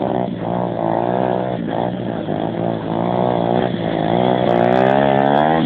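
Pit bike engine running under changing throttle, its pitch repeatedly dropping and picking up again, then climbing steadily near the end.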